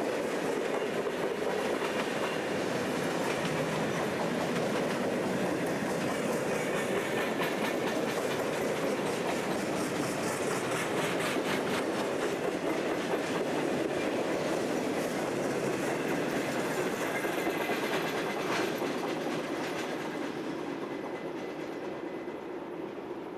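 Freight train cars rolling steadily past, their wheels clicking over the rail joints. The sound fades over the last few seconds as the tail of the train draws away.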